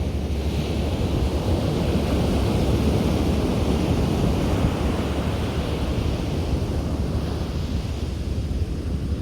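Sea surf breaking and washing onto a beach, swelling to its loudest a few seconds in and then easing off. Wind rumbles on the microphone underneath.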